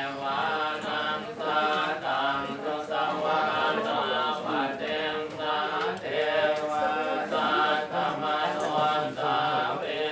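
Buddhist chanting: a group of voices reciting verses in unison in a steady, rhythmic monotone.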